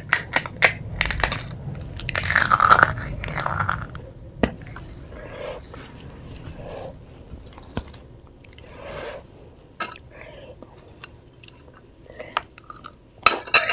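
Crisp fried panipuri shells crunching as they are bitten and chewed close to the microphone, loudest about two to four seconds in. Then comes quieter chewing with soft mouth sounds, and a new burst of crunching near the end.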